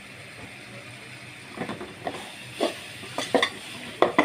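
Spice paste frying in oil in a pan, sizzling steadily. From about one and a half seconds in, a spatula scrapes and knocks against the pan several times as the masala is stirred.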